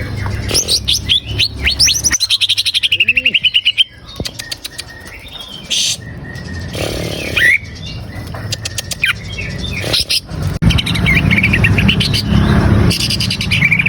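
Cucak ijo (green leafbird) singing a fast, varied song of chirps and rippling trilled phrases, with a run of quick clicking notes about two to four seconds in. A low steady rumble sits under the song in the second half.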